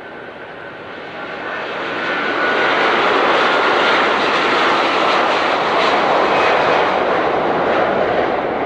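Airbus A330-243 jet airliner's Rolls-Royce Trent 700 turbofans at takeoff thrust. The roar grows louder over the first few seconds, then holds loud and steady, with a faint whine early on.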